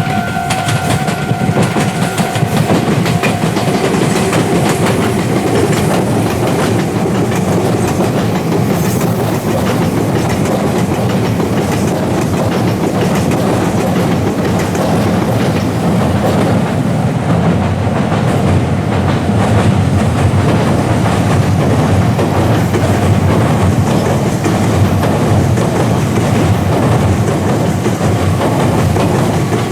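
Meitetsu electric commuter train passing over a level crossing, its wheels clattering steadily over the rail joints. The crossing's electronic warning bell rings at the start and is drowned out by the train after a couple of seconds.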